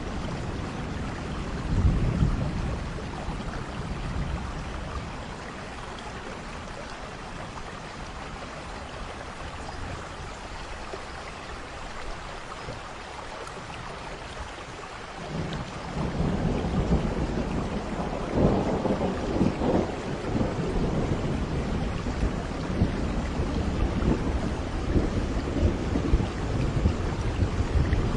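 Steady rain falling, with thunder: a short low rumble about two seconds in, then a long rolling peal of thunder that starts about halfway through and keeps rumbling to the end.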